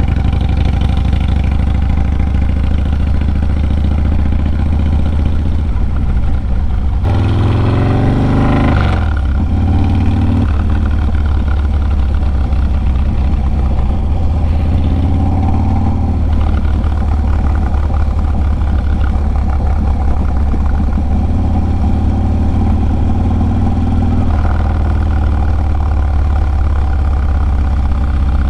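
Harley-Davidson Low Rider S's 110-cubic-inch V-twin running under way through a Sawicki Speed 2-into-1 exhaust. Its pitch rises and then drops about seven to nine seconds in, and it steps up and down a few more times after that.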